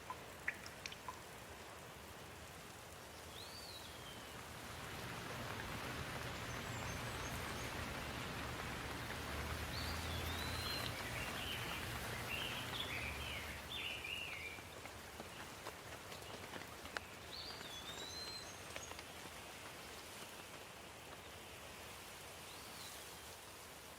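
Steady rain falling, growing louder for about ten seconds in the middle, with a low rumble underneath. Short chirps, likely a bird, come through a few times.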